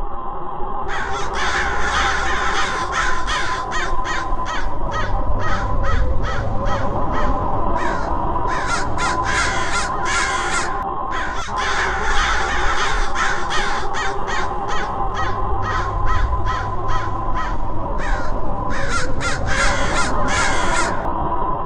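Harsh bird calls like crows cawing, repeated rapidly many times, with a short break about halfway and another near the end, over a steady low hum.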